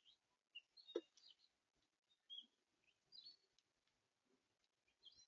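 Faint, short songbird chirps, scattered every second or so, with one sharp tap about a second in.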